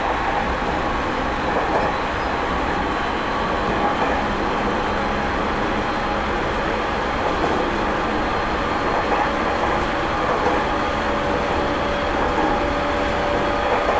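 Interior running sound of a JR 209 series 2100 subseries electric train at speed, in the motor car MoHa 208-2171 with MT68 traction motors: steady rumble of wheels on rail with a faint steady tone from the drive that comes in during the last few seconds.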